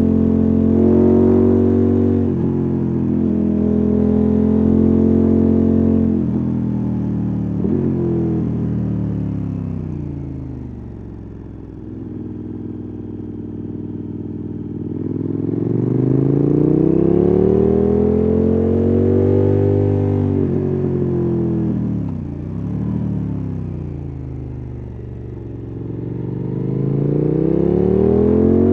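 KTM 1290 Super Adventure S's 1301 cc V-twin engine and exhaust under way, revs rising and falling with the throttle. The revs drop away about ten seconds in, then climb and ease off twice more.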